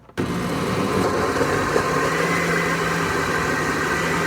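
Countertop blender switching on suddenly and running at a steady high speed, its motor humming as it blends a thick protein shake of milk, oats, banana and fruit.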